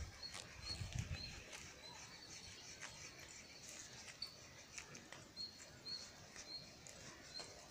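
A small bird chirping faintly, one short high note repeated every half second or so in runs. Faint crackles and rustles of leaves and twigs come in between.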